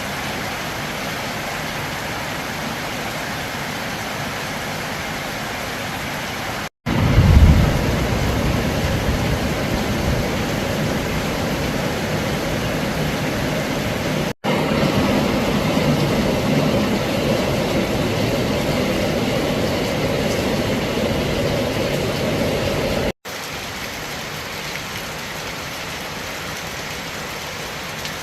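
Heavy rain falling in a steady hiss, in several stretches that cut off abruptly and resume. The middle stretches are louder and deeper, with a low rumble about seven seconds in.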